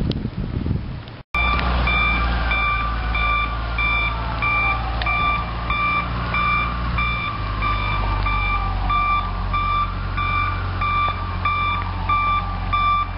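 Vehicle reversing alarm beeping steadily, about two beeps a second, over a truck's engine running. A fainter wailing tone slowly falls and rises underneath.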